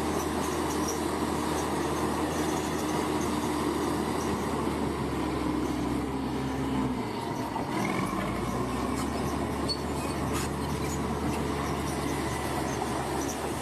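Diesel engine of heavy earthmoving machinery running steadily, its engine note shifting about seven seconds in.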